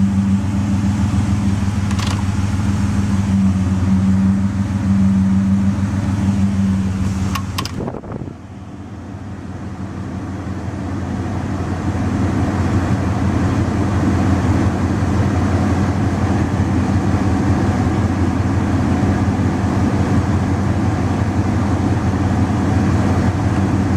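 Ford Escape's 3.0-litre V6 idling, the rough idle that the owner is chasing. About eight seconds in the sound briefly drops away and then builds back up, more of a hiss and less of a hum.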